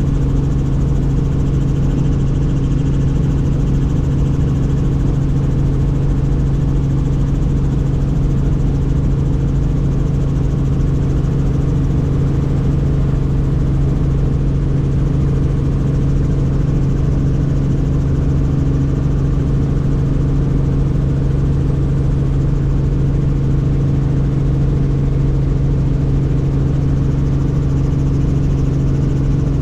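Helicopter in flight, heard from on board: a loud, steady drone with a strong, unchanging low hum.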